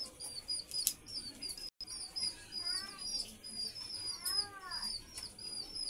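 Small birds chirping rapidly and continuously, in short high repeated notes. Two longer calls rise and fall, about three seconds in and again about four and a half seconds in.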